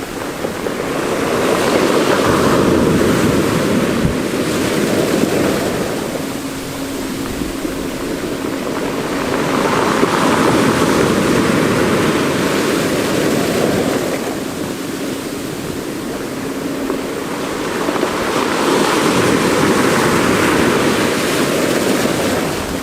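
Mediterranean Sea waves breaking and washing on the shore of a small rocky cove, three waves swelling and fading about every eight to nine seconds.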